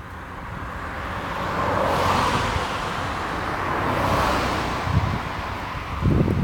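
A passing vehicle: a rush of rolling noise that swells, peaks about two seconds in and again about four seconds in, then fades. Wind buffets the microphone near the end.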